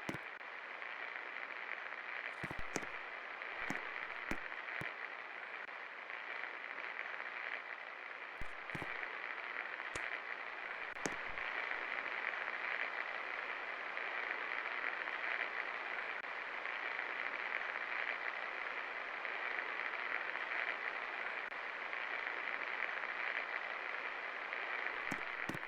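24-inch Best Electric Works Alpha ceiling fan running with a steady hum and rush of air. A few short clicks come in the first ten seconds or so, and the noise grows a little louder about halfway through.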